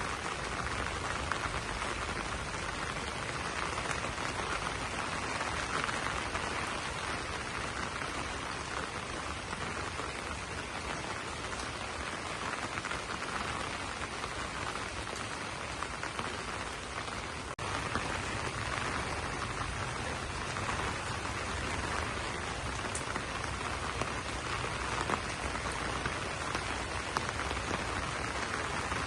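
Steady rain falling on broad banana leaves, a dense even patter of drops, with a momentary break in the sound a little past halfway.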